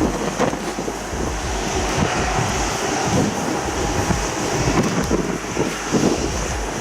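Jet aircraft engine noise, a steady rushing roar that swells about two seconds in and eases toward the end, with wind buffeting the microphone.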